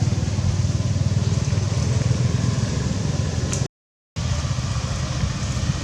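A motor vehicle engine running steadily with a low, pulsing rumble, cut by a sudden half-second dropout to silence just before four seconds in.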